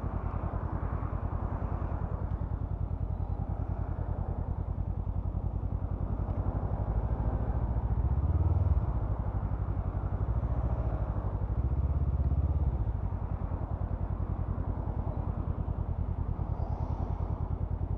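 Honda CMX500 Rebel's 471 cc parallel-twin engine running under way, with wind and road noise. The engine grows louder twice as the bike pulls harder, about eight seconds in and again about twelve seconds in.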